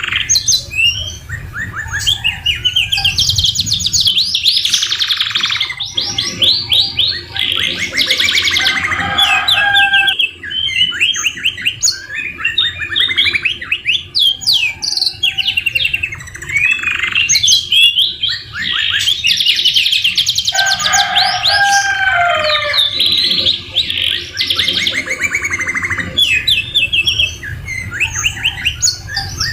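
Domestic canary singing continuously in long, rapid trills and rolls, its song filled with phrases copied from the white-rumped shama (murai batu). A lower, falling phrase comes twice, about a third of the way in and again past the two-thirds mark.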